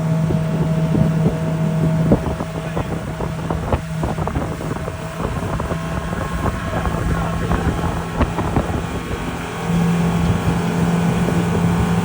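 Motorboat engine running with a steady low hum, wind buffeting the microphone; the engine gets louder about ten seconds in.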